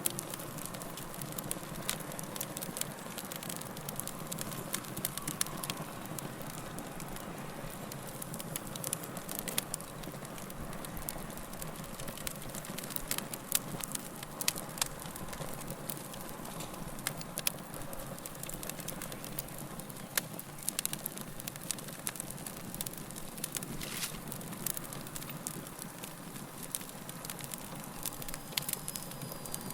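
Wood fire burning steadily, with a low rushing sound and frequent irregular crackles and pops of burning logs.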